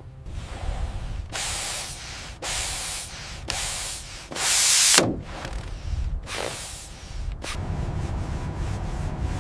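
About five separate bursts of spraying hiss, each half a second to a second long, the loudest about halfway through ending in a quick falling sweep, over a steady low rumble.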